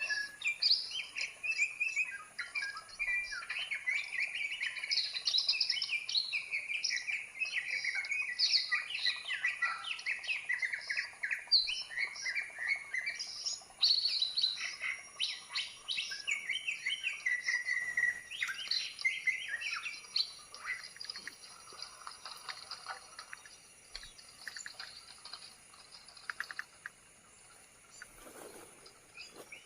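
Birds singing: a dense run of fast, varied chirps and whistles that thins out to sparse, fainter calls for the last several seconds.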